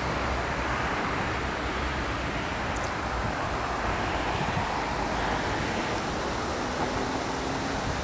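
Wind buffeting the microphone over the low rumble of an electric locomotive approaching with its train. A faint steady hum comes in about two-thirds of the way through.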